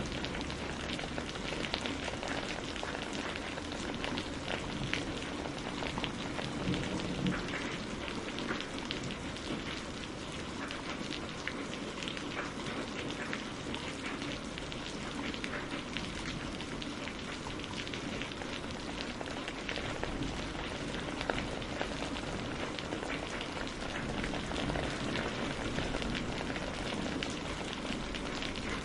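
Steady rain pattering on a greenhouse roof, with dense, fine drop hits and no lull.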